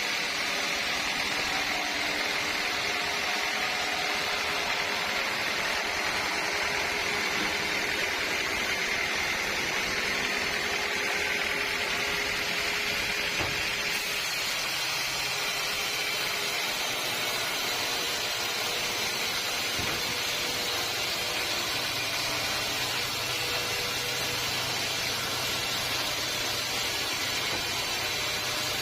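Sawmill machinery running steadily, a continuous mechanical noise with a faint whine; about halfway through the sound shifts and a lower hum comes in.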